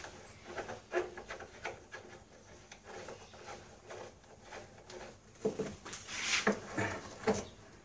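Scattered light knocks, clicks and rubbing from wooden and metal parts being handled and fitted by hand, with a run of louder knocks in the last few seconds.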